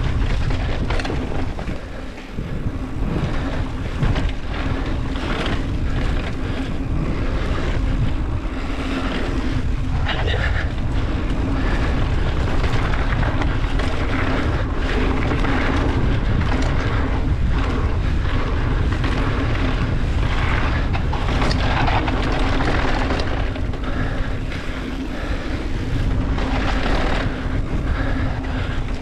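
Wind rushing over the microphone and tyres rolling on a dirt trail as a mountain bike descends, with frequent knocks and rattles from bumps, over a faint steady hum.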